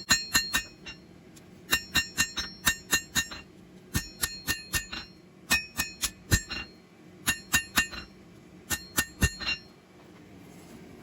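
Hand hammer striking hot high-carbon steel on an anvil, each blow ringing out with a bright metallic ring. The blows come in quick runs of three to six with short pauses between, and stop about a second before the end.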